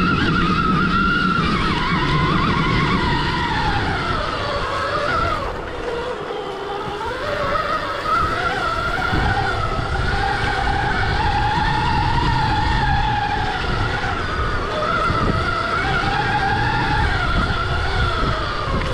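Stark Varg EX electric dirt bike's motor and drivetrain whining, the pitch rising and falling repeatedly with throttle, over the rumble of knobby tyres on rough dirt. The whine dips around five to seven seconds in, then climbs back and rides steadier.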